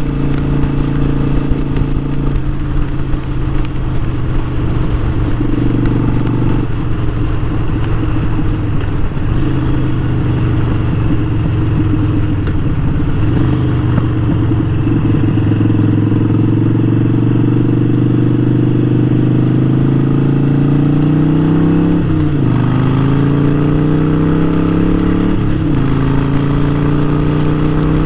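Harley-Davidson Sportster 1200's air-cooled V-twin engine running on the road, climbing steadily in pitch under acceleration, then dropping sharply twice near the end as it shifts up through the gears, about three seconds apart.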